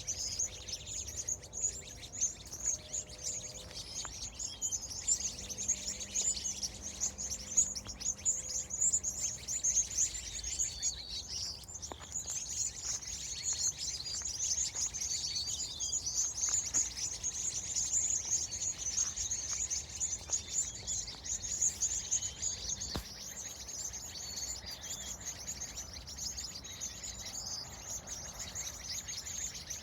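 Many small birds chirping and twittering at once, a dense, continuous high-pitched chorus of rapid calls.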